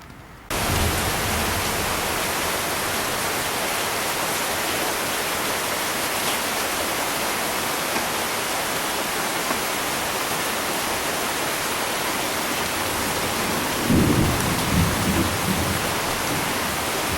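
Sony CRT television's speaker hissing with loud, steady static, switching on suddenly about half a second in: the set is powered up with no station tuned. A few low thumps about fourteen seconds in.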